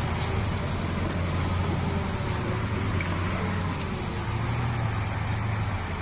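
Enduro motorcycle engine running steadily at a low, even pitch while riding through mud, with a constant rush of noise over it.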